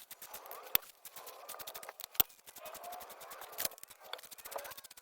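Hand tools clicking and knocking on metal as a small-block Chevy 350 is taken apart, with three louder sharp knocks among lighter clicks, over faint bird chirps.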